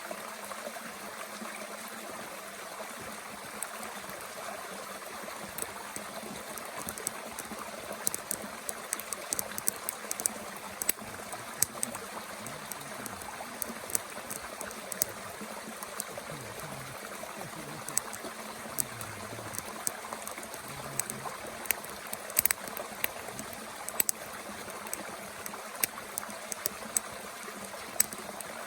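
Steady babble of a mountain stream, with frequent sharp crackles and pops from twigs burning in a small wood-burning camp stove, the crackles growing thicker about a third of the way in.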